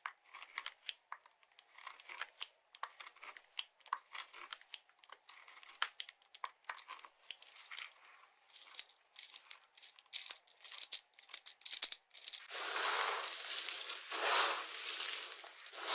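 Dry soap being cut and crushed: a dense run of crisp, crackling snaps, then about three quarters of the way through longer, grainy crunching passes as the soap crumbles.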